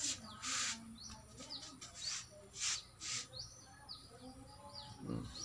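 Small birds chirping in the background: a string of short, high chirps, with a few brief hissing noises in between.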